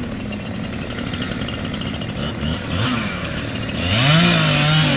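Chainsaw running with a fast, even rattle, its pitch rising and falling as it revs, getting louder about four seconds in.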